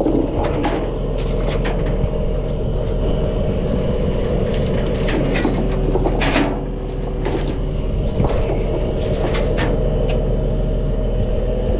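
Semi truck's diesel engine running steadily, with a few scattered clicks and knocks over it.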